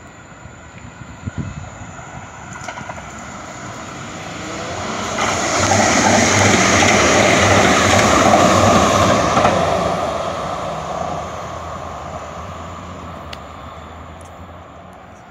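A train passing by: it swells up, is loudest for a few seconds in the middle with a regular low clatter, then fades away.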